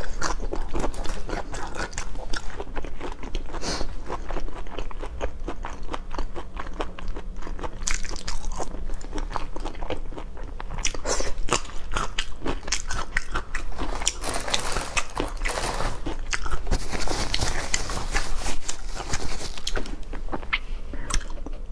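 Close-up crunching and chewing of shell-on shellfish, a dense run of short crackly crunches.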